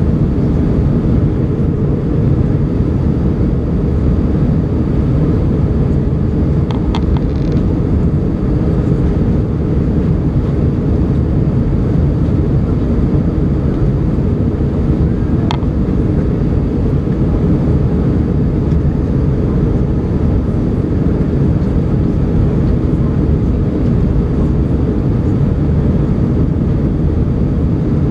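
Steady deep rumble of an Airbus A320's engines and rushing air, heard inside the passenger cabin during takeoff. A couple of faint clicks sound about 7 and 15 seconds in.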